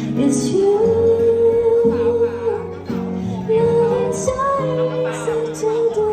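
A band playing a slow pop song: a female voice sings long held notes over sustained instrumental backing.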